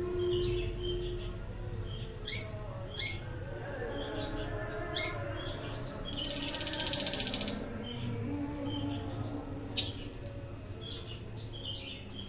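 Lovebirds calling: several short, shrill chirps, then a buzzy rattling call lasting about a second and a half, then another quick cluster of chirps, over a low steady hum.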